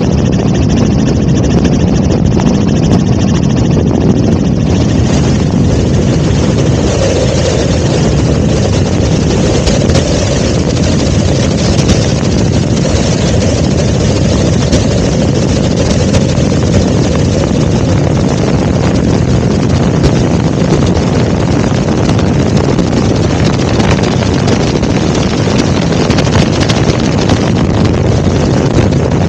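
Helicopter engine and rotor noise, loud and steady, growing brighter and more hissing about six seconds in.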